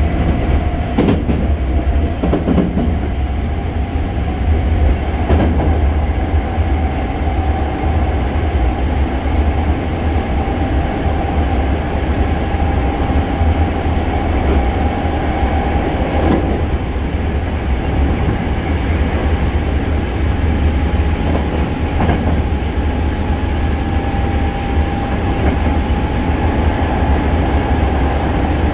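Hankyu 6300 series train heard from inside the passenger car while running: a heavy steady rumble under a steady whine that rises slightly in pitch, with a few sharp wheel knocks over the rails.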